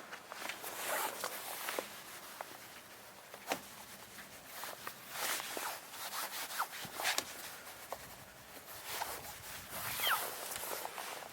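Irregular rubbing and scraping strokes with scattered small clicks and a short squeak near the end, typical of a brush or towel being worked over a truck's interior surfaces during cleaning.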